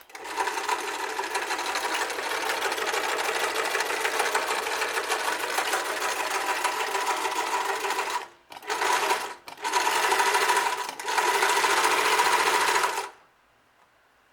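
Singer Deluxe Zig-Zag 690U sewing machine (1971) running steadily at speed, its motor and needle mechanism going in a fast even chatter. After about eight seconds it stops briefly twice and starts again, then stops about a second before the end.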